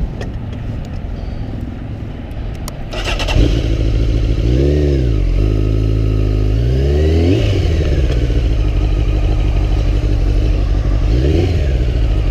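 A sport motorcycle engine starts about three seconds in and idles, blipped three times, each rev rising and falling in pitch.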